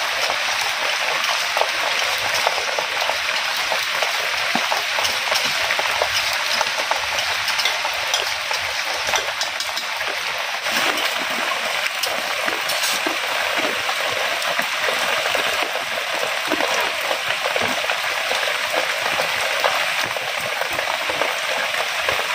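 Food frying in hot oil in a pan: a steady sizzle with many small crackles and pops.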